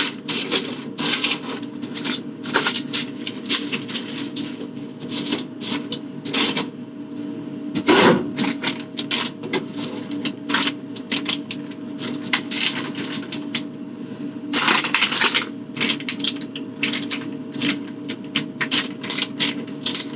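Items being packed into a plastic bag: dense, irregular crinkling and clicking of the bag and packaging, with a heavier knock about eight seconds in. A steady low hum runs underneath.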